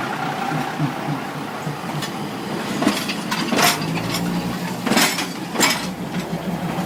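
A train passing close by: a steady rumble with four sharp knocks or clanks in the middle.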